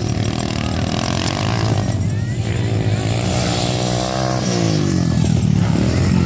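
Dirt bike engine revving hard, its pitch climbing, then falling steeply a little past the middle as the bike passes.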